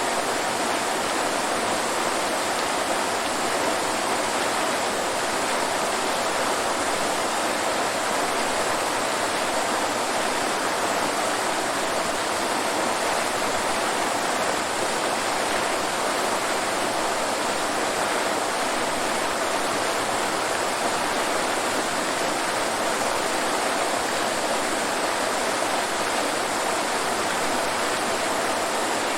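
Waterfall rushing: a steady, unbroken wash of falling water with no changes.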